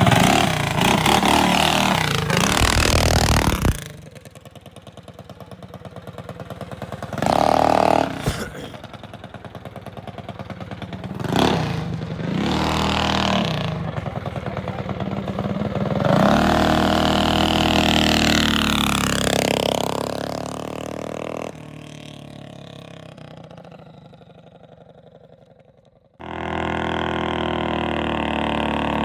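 Small single-cylinder minibike engines running, revving up and down and passing by. The sound drops and jumps abruptly several times.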